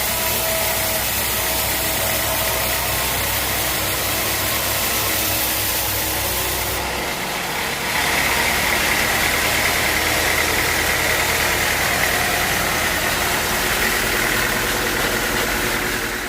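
Sawmill machinery running steadily. About halfway through the low hum drops away and a higher, steady whine comes up and runs on to the end.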